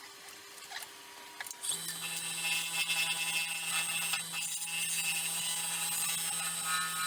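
A small electric power tool switches on about two seconds in and runs at a steady speed with a hum and an airy hiss.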